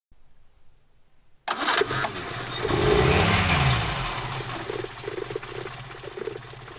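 Car engine starting with a sudden loud catch about one and a half seconds in, revving up and back down, then running on with an even pulse as it slowly fades.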